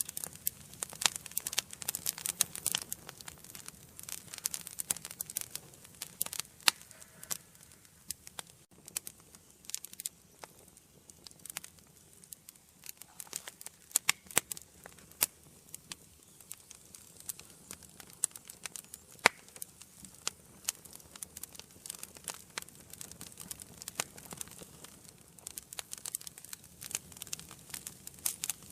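Wood fire burning in a fireplace, crackling with frequent irregular sharp snaps and pops over a faint low hiss.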